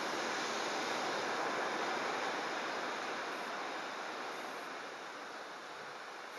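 Typhoon-driven rough sea surging and breaking, a steady rushing noise that eases slightly in the second half.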